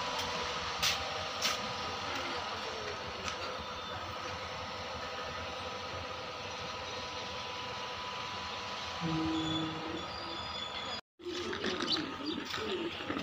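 Steady rumble and hum of an Indian passenger train standing at or easing along a station platform, heard from the coach's open doorway, with a couple of clicks near the start and a short low two-note tone around nine seconds in. After an abrupt break near the end, birds calling over platform clatter.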